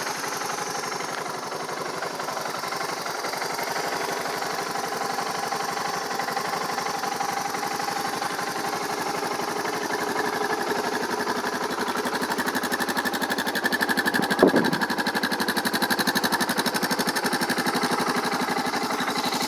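2008 Suzuki DR650's single-cylinder four-stroke engine idling steadily through its stock exhaust, with the choke turned down after a cold start. The engine is nice and quiet.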